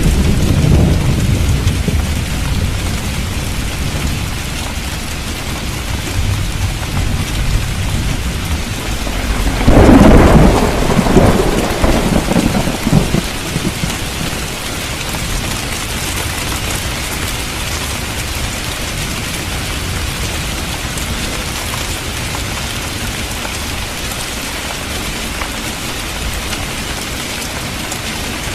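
Steady rain falling on a street. A low rumble of thunder is dying away at the start. About ten seconds in, a loud thunderclap rolls on for a few seconds before fading back under the rain.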